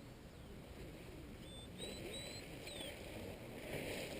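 A bird calling a short run of clear, high whistled notes, some rising and one sliding down, about halfway through, over a low, steady background rumble.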